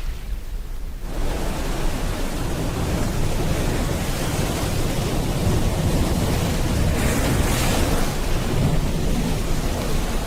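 Rain and ocean waves: a steady wash of noise with a deep rumble underneath. The sound swells about a second in, and a brighter hiss rises briefly around seven seconds in.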